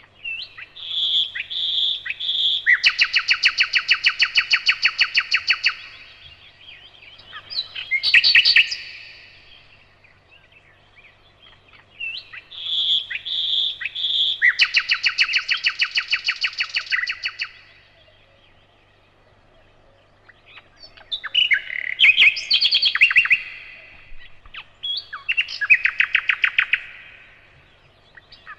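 Nightingale singing: phrases of a few seconds separated by short pauses, each opening with a few clear repeated notes and running into a fast, loud rattling trill.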